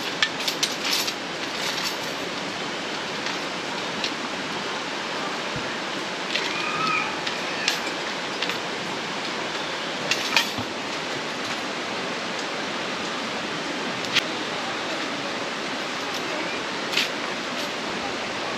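Mountain valley stream rushing steadily, with scattered short sharp clicks and taps on top of it.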